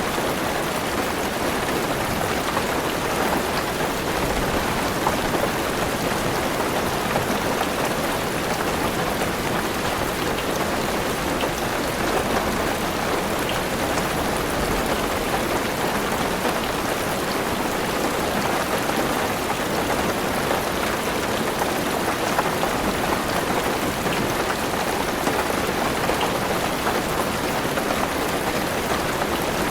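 Heavy rain falling on a car's roof and windows, heard from inside the car: a steady, dense patter with no let-up.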